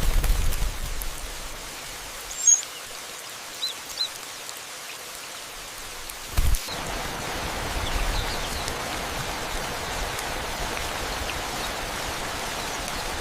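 A steady rain-like hiss that becomes louder about halfway through, with a few short high chirps and a few dull low thumps.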